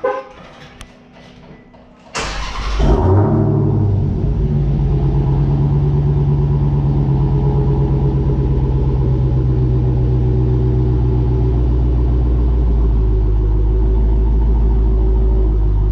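Dodge Hellcat Redeye Widebody's supercharged 6.2-litre HEMI V8, with aftermarket exhaust work, starting up: after a few faint clicks it cranks about two seconds in, flares up as it catches, then settles into a steady, loud idle.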